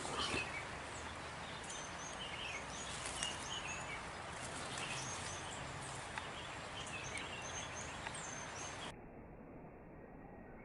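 Birds chirping in short, scattered calls over a steady outdoor hiss. About nine seconds in, the sound cuts abruptly to a quieter, muffled background.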